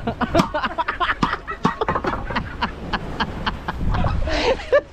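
Short vocal sounds with many sharp knocks and clatter in between.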